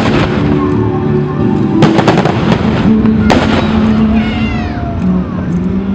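Fireworks bursting in the sky: a sharp bang at the start, a quick cluster of bangs about two seconds in and another single bang just after three seconds, over music playing.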